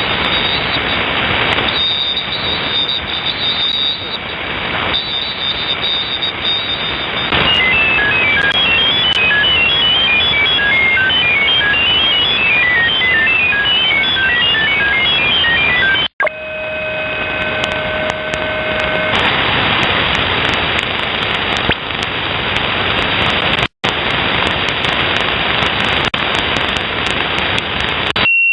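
Shortwave radio static hissing from a WebSDR receiver as it is tuned between frequencies. In the middle, a fast run of short beeps hops between pitches for several seconds, then the signal drops out briefly and a few steady whistling tones sound for about three seconds before the hiss returns, with another short dropout later on.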